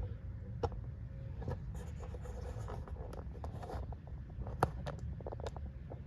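Scraping and rubbing on rusty metal, with scattered light clicks and taps, as rust is cleaned from around the ABS wheel speed sensor mounting hole.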